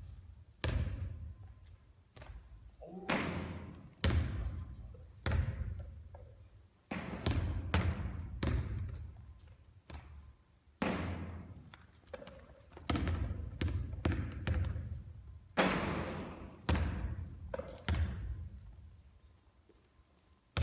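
Basketball bouncing on a court during three-point shooting practice: a run of sharp thuds, about one or two a second, each ringing out briefly.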